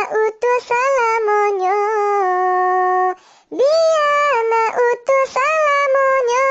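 A high voice holding long, drawn-out notes with slides up into each note and small wavers, breaking off briefly about three seconds in before starting another long note.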